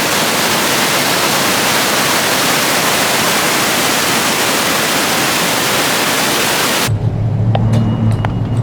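Cullasaja Falls, a loud steady rush of falling water. About seven seconds in it cuts off abruptly to the low, steady hum of a vehicle driving, heard from inside the cabin, with a few faint clicks.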